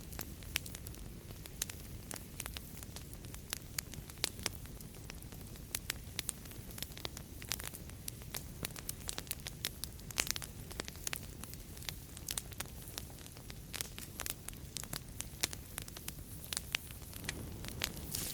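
Fireplace fire crackling, with many sharp, irregular pops and snaps over a steady low rumble of flames.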